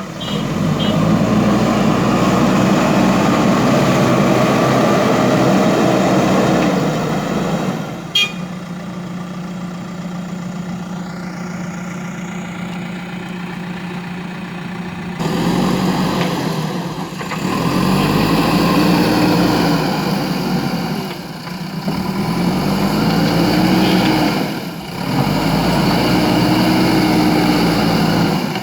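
JCB backhoe loader's diesel engine running under load. About eight seconds in, after a click, it drops to a quieter idle. A few seconds later it revs up again, its pitch rising and falling several times.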